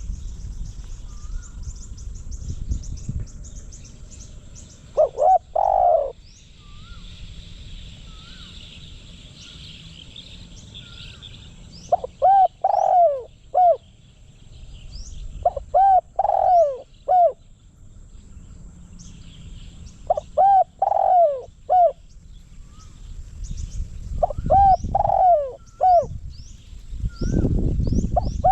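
Spotted dove cooing as a calling decoy bird. It gives phrases of three or four descending coos, starting about five seconds in and then repeating roughly every four seconds. Small birds chirp faintly in the background, and a low rumble rises near the end.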